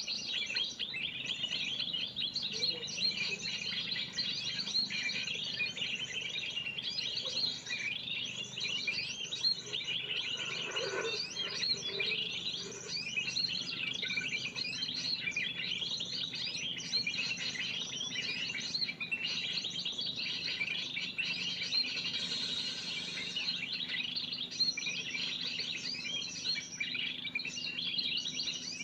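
Dense, unbroken high-pitched chirping of spiderhunters, many calls overlapping at once, as in a bird-trapping lure recording. A brief lower call sounds about eleven seconds in.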